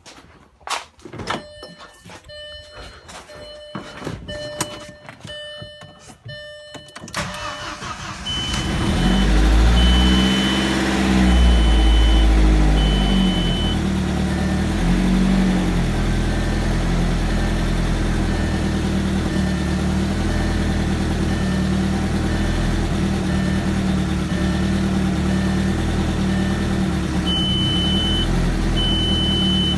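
AEB 1.8-litre turbo four-cylinder with a big turbo, cranked over on the starter for about seven seconds while a dashboard warning chime beeps, then catching on its first start after a leaking fuel rail was fixed. It revs up and down twice and settles into a steady idle, with the chime beeping again near the end.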